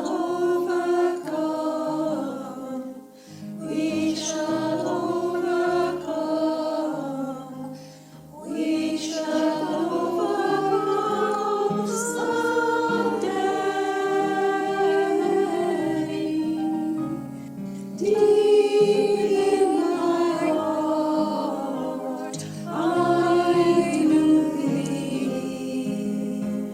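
Choir singing a hymn in sustained phrases, with short breaks between the lines.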